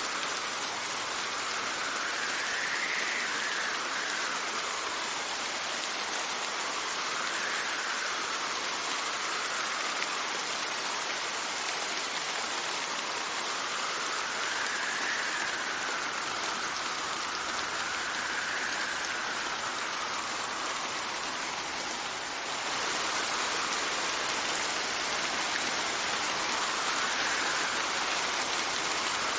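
Steady rain with wind blowing in gusts, a faint whistle rising and falling every few seconds.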